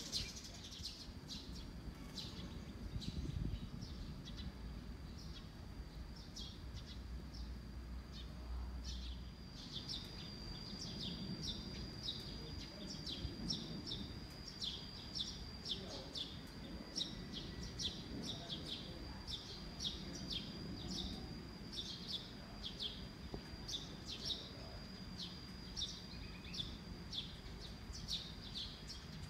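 Small birds chirping, short high calls repeating every second or so, over a steady high-pitched tone and a faint low rumble.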